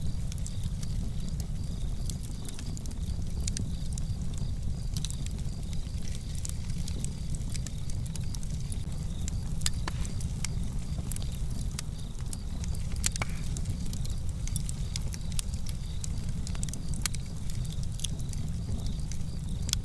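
Fireplace fire crackling: a steady low rumble of flame with many irregular sharp pops and snaps.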